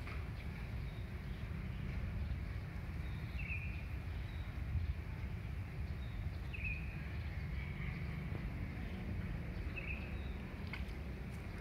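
A bird repeating a short, high call about every three seconds, over a steady low outdoor rumble.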